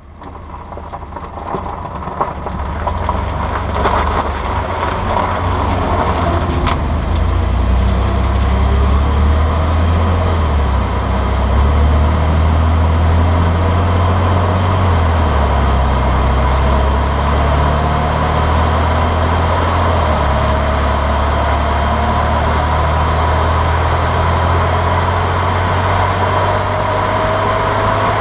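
Driving noise of a 2011 Ford F-150 EcoBoost at steady highway speed: a loud, steady low rumble of engine, drivetrain and road. Over the second half a thin tone slowly rises in pitch.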